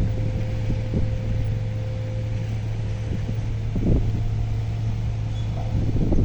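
Heavy diesel machinery running steadily: a low drone with a faint held whine through most of it and a dull knock about four seconds in.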